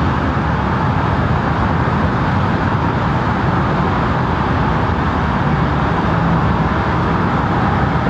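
Steady roar of freeway traffic and road noise, even and unbroken.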